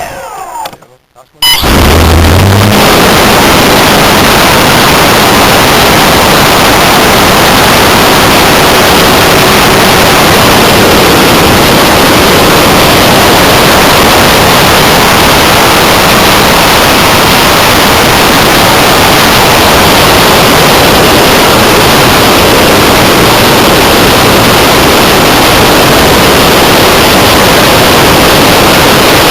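Loud, distorted rush of air and electric motor noise overloading a small onboard camera's microphone on an electric RC model plane. It cuts in abruptly about a second and a half in and then stays steady.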